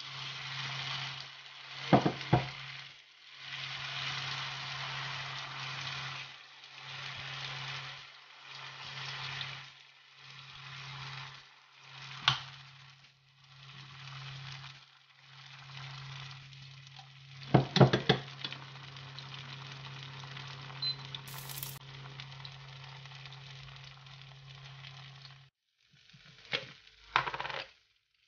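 Pearl millet pancake batter sizzling in hot oil in a non-stick frying pan, with a steady low hum underneath. A few sharp clicks come from the spoon knocking against the pan as the batter is spread.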